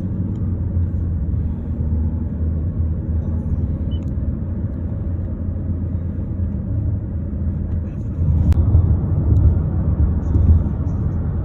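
Steady low rumble of a car running, growing a little louder about eight seconds in.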